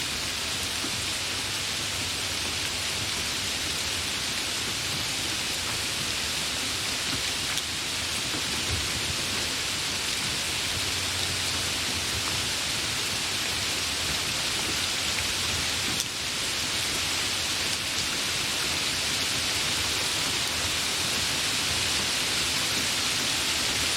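Steady heavy rain: an even, unbroken hiss of falling rain.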